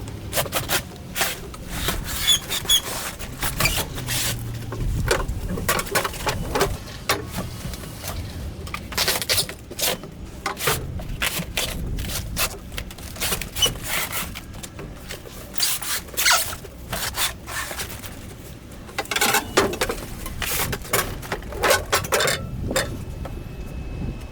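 Boxed refrigerators being handled and moved: irregular scraping, rubbing and squeaks with sharp knocks, over a low rumble.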